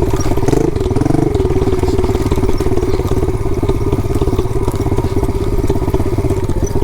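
Pit bike engine running close to the microphone with a rapid, even firing beat, briefly changing pitch about a second in.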